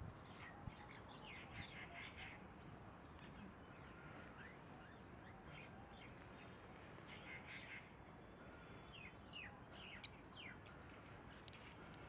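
Faint bird calls: short, high chirps and quick falling notes in scattered bursts over a quiet hiss.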